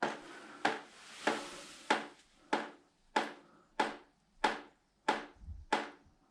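Water from a ceiling leak dripping steadily into a collecting pan, with about three sharp drips every two seconds. The leak is slowing down after the water supply was shut off.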